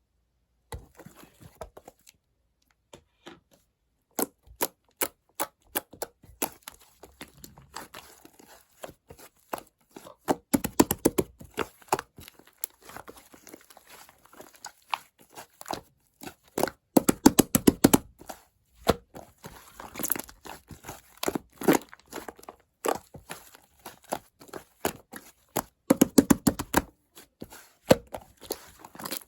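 Slime being kneaded and mixed by hand, giving runs of sticky pops and crackling clicks in irregular bursts. It is sparse at first and turns into dense clusters of pops several times.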